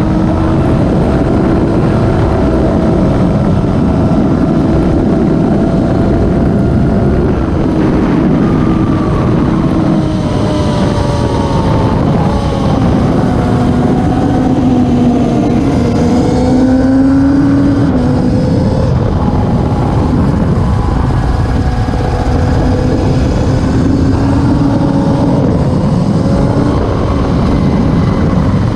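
Classic superbike racing motorcycles running hard on a circuit. Several engines are heard at once, their pitch rising and falling as the riders rev and shift gears.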